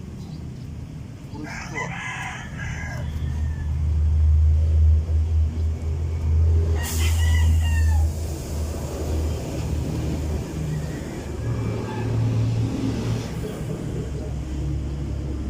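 A rooster crowing twice, first about a second and a half in and again around seven seconds, over a low vehicle rumble that swells in the middle.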